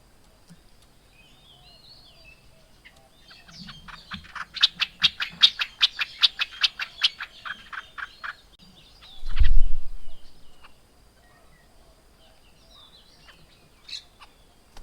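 A bird gives a fast, rattling chatter of sharp notes, about five a second for some five seconds, among scattered softer chirps. About a second later comes a single loud, low thump.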